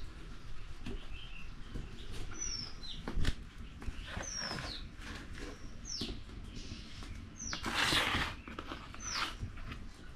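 A bird repeats a short high call that falls in pitch, about every one and a half to two seconds, with scattered clicks and knocks and a short rushing noise about eight seconds in.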